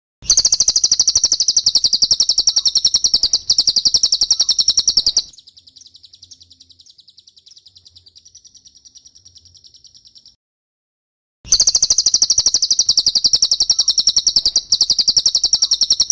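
Cililin song: a loud, very rapid trill of repeated high notes. About five seconds in it drops to a quieter, finer twitter, breaks off for about a second, then the loud rapid trill starts again.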